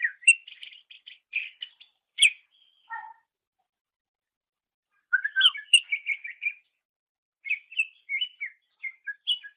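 Cucak ijo (green leafbird) singing: three phrases of quick chirped and whistled notes, with a silent gap of about two seconds after the first.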